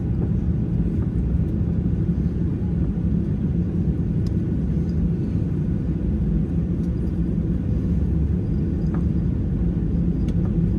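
Steady low rumble and hum inside the cabin of a Boeing 737-800 on the ground, with a few faint clicks.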